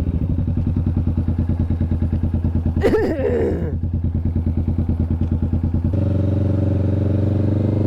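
Motorcycle engine running with a fast, even pulse, heard from the rider's seat. About six seconds in the engine note changes and settles into a steadier, smoother tone.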